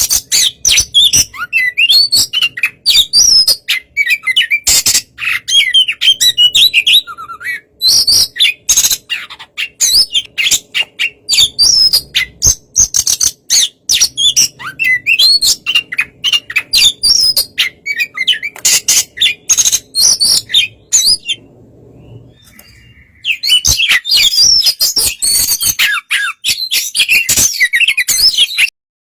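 Oriental magpie-robin singing: a fast, varied stream of whistled and chirped phrases mixed with sharp ticks, pausing for about two seconds roughly three-quarters through, then resuming and cutting off abruptly just before the end.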